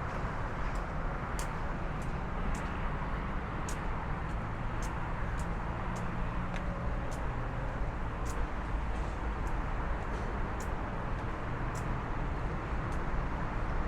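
Footsteps climbing a stairway, a step roughly every two-thirds of a second, over a steady hum of distant city traffic.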